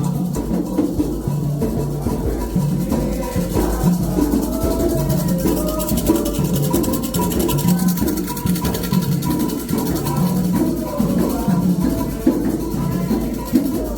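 Candomblé toque: atabaque hand drums keeping a steady rhythm, with a rattle and voices singing over them.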